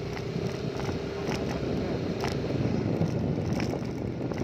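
An engine running steadily, with a low rumble and a few brief clicks over it.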